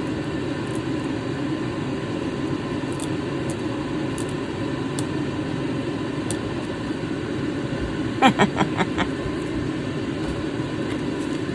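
Steady low background hum with no clear rhythm or pitch. About eight seconds in, a quick run of four or five light clicks sounds, like small hard objects tapping together.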